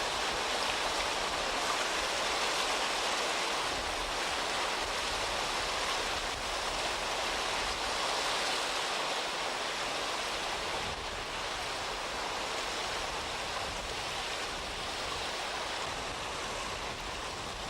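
River water rushing, a steady even noise that eases off slightly over the last few seconds.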